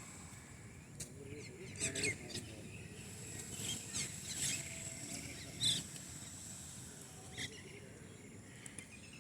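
Birds chirping: scattered short, sharp chirps, the loudest about two seconds in and just before six seconds, over a faint low background rumble and a thin steady high tone.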